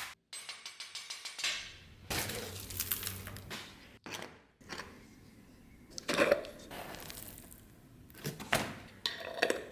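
Metal parts clinking and scraping in short separate bursts, with several sharp clinks of hard metal against metal or a hard surface.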